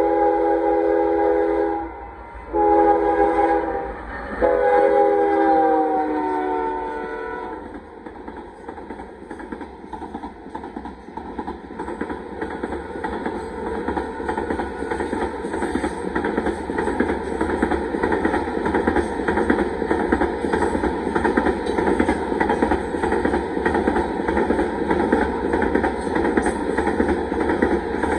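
A Union Pacific freight locomotive's multi-note air horn sounds at a grade crossing. A long blast ends, a short blast follows, then a final long blast sags slightly in pitch as the locomotive passes. The horn stops about seven and a half seconds in, and the rumble and clickety-clack of hopper car wheels rolling over the rails builds and keeps going.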